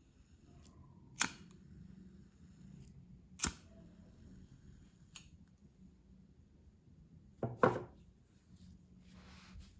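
Sharp clicks and taps of colouring supplies being handled on a table: single clicks every couple of seconds, a louder cluster of taps about three-quarters of the way through, and a faint brushing scratch near the end.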